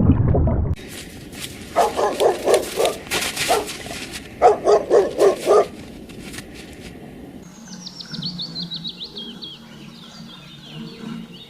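Two quick bouts of rapid, barking-like animal calls, each a string of short yaps, then a bird's falling series of high chirps.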